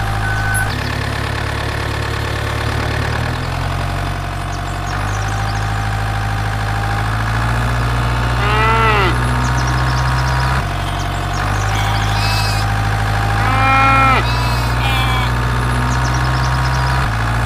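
Toy tractor's electronic sound effects: a recorded engine rumble that steps abruptly between levels, with a cow's moo played twice, about halfway through and again later on.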